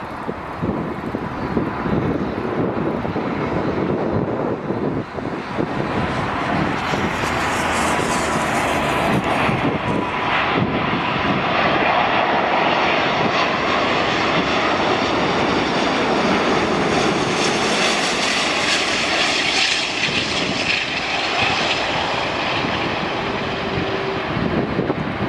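Jet airliner passing, its engine noise building to a peak about two-thirds of the way through, with a faint steady whine early on. Wind buffets the microphone throughout.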